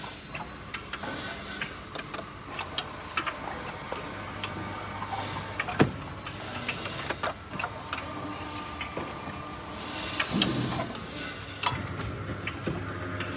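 Small electric motor running its mechanism with its mounting screws loosened: a steady hum and whine, broken by irregular clicks and knocks. This is the abnormal noise that comes from the motor being out of line with the guide it drives.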